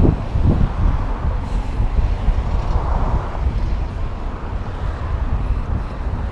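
Steady low rumbling noise, without a clear pitch or distinct strokes.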